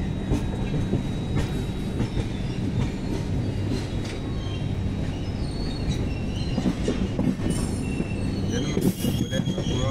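Train running on rails, heard from aboard a moving train: a steady low rumble and hum with scattered wheel clicks, and high-pitched wheel squeals in the last few seconds.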